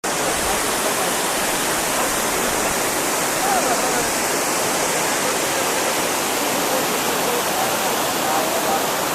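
Waterfall rushing, a steady unbroken wash of falling water, with faint voices under it.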